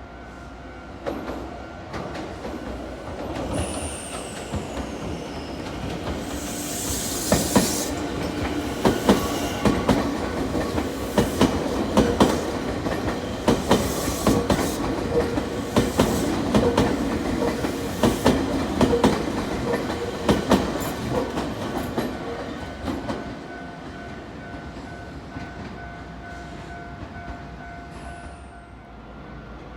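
Electric train on the Nankai Koya Line passing by, its wheels clacking over rail joints in a long run of clicks. The sound builds over the first few seconds and fades after about twenty-three seconds, with a couple of brief high wheel squeals.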